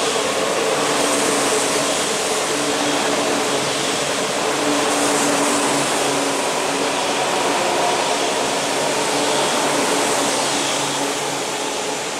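E4 series double-deck Shinkansen train running slowly along the platform as it pulls in to stop: a steady rushing noise from the passing cars, with a few faint steady tones running through it.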